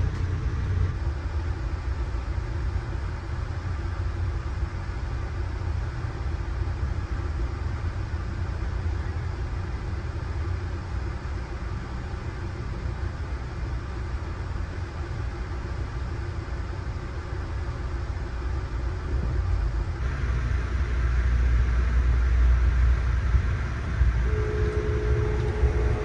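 Amtrak train in motion: a steady low rumble of running gear on the rails. About two-thirds of the way through, the sound changes abruptly to a louder, deeper rumble, and a steady tone joins near the end.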